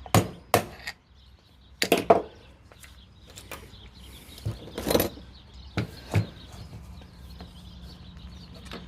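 Hammer knocking on a push mower wheel to drive out the old wheel bearing: a handful of sharp, irregular strikes, grouped in the first two seconds and again around five to six seconds in.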